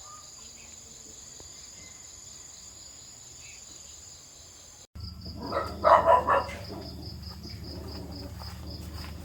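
Insects trilling steadily in a high, thin drone, broken by a sudden cut about five seconds in. After the cut a pulsing insect trill goes on over a low hum, and a loud, brief animal call sounds about a second later.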